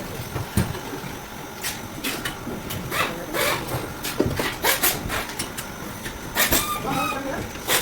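Busy market din: a steady background noise with irregular clattering knocks and clicks throughout.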